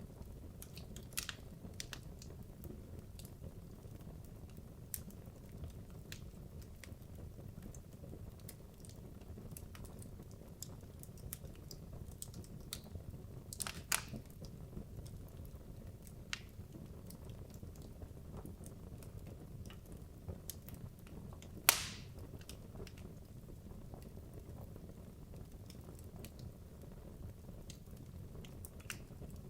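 Wood logs burning in a fireplace: a steady low rumble of the flames with scattered crackles and snaps, and two louder pops, one about 14 seconds in and a sharper one about 22 seconds in.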